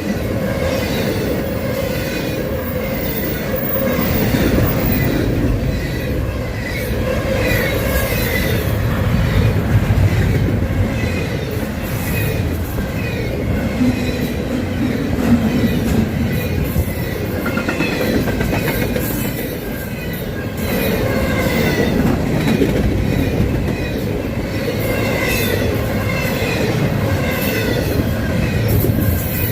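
Freight train cars rolling past steadily, wheels clicking over rail joints, with brief bits of wheel squeal.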